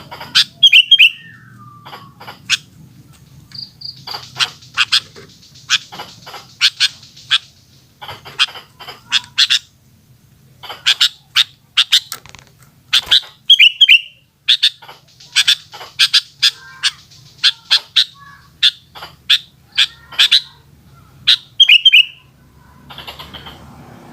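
Sooty-headed bulbul (kutilang) calling: runs of sharp, rapid chirps with short pauses between, and a short warbled phrase that comes three times, near the start, in the middle and near the end.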